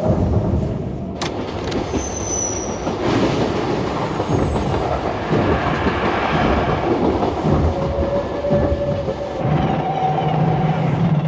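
Passenger train running on the rails: a steady rumble and clatter of the wheels, with a few brief squeals of wheel on rail.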